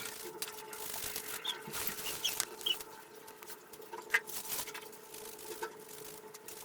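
Clothes being scrubbed by hand in a basin of soapy water: irregular wet rubbing and squelching with small clicks and splashes. A few short high chirps come through about two seconds in, over a faint steady hum.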